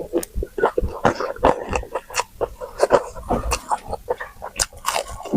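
Close-miked eating sounds: chewing and smacking of the mouth, a quick irregular run of short wet clicks and snaps.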